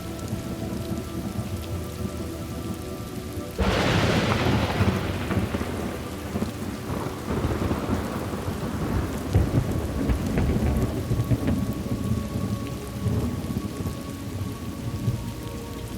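Steady rain with a sudden thunderclap about three and a half seconds in that rolls off into rumbling over several seconds.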